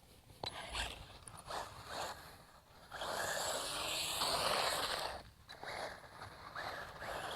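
Brushless-motored RC buggy driving: short bursts of tyre and gravel noise, then a longer run from about three to five seconds with a wavering high motor whine, briefly dropping away before it picks up again.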